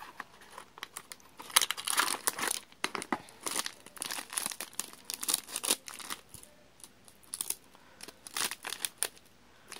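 Plastic snack wrapper being crinkled and torn open, in irregular bursts of crackling with short pauses between.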